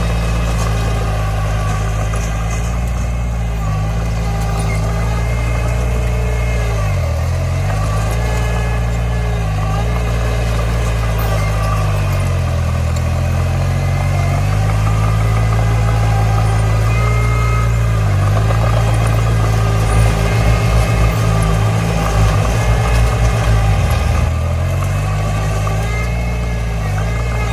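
Heavy-equipment diesel engine running steadily, its pitch dipping and recovering several times as it takes load. For a few seconds in the later part a rapid low stuttering rattle comes through.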